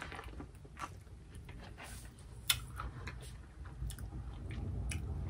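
A person chewing seafood close to the microphone: irregular soft mouth clicks, with one sharper click about two and a half seconds in.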